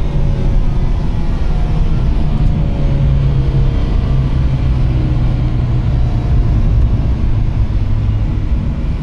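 A BMW's engine running steadily under load at track speed, heard from inside its cabin as a low drone mixed with road and wind noise.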